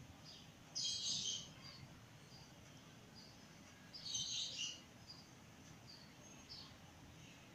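Small birds chirping: short high calls scattered throughout, with two louder bursts of chatter about a second in and about four seconds in.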